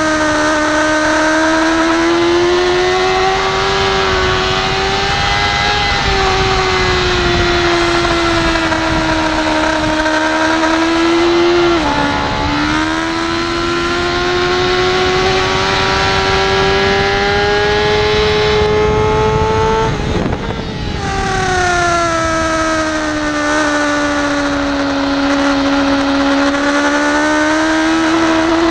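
BMW S1000RR's inline-four engine running hard at high revs on track, its pitch slowly climbing with a quick dip about twelve seconds in like a gear change. About twenty seconds in there is a sharp break, after which the revs fall away, then rise again near the end, over a steady rush of wind noise.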